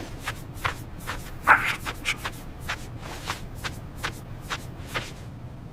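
Soft shuffling footsteps: a quick, irregular run of light steps over a faint steady low hum.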